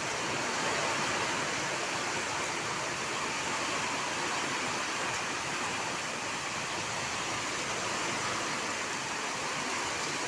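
Heavy rain pouring down, a steady dense hiss of water.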